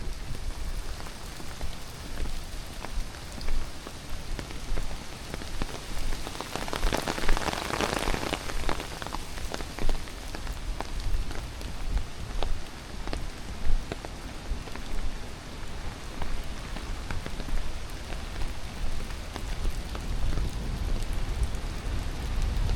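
Steady hiss of rushing water, with scattered small taps and crackles through it. A deep rumble swells toward the end.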